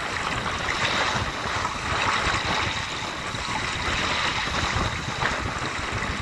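Sea waves washing onto the shore, with wind: a steady rushing wash that swells and eases gently.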